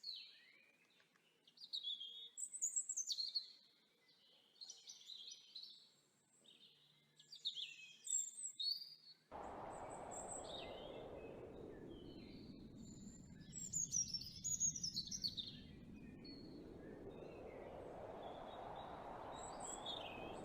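Congo African grey parrot making short chirps and whistles, sliding up and down in pitch, with quiet gaps between bursts. About nine seconds in, a steady rushing noise starts beneath the calls and carries on.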